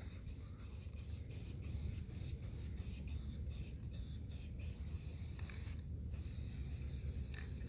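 Aerosol spray paint can spraying a tractor tire, first in quick short bursts about three a second, then in a steadier hiss with a brief pause about six seconds in.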